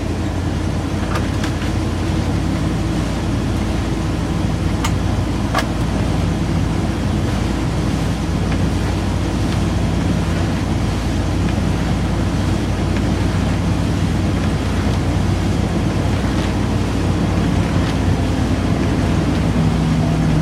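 1986 Ford F600 truck engine running steadily on fast idle just after a cold start.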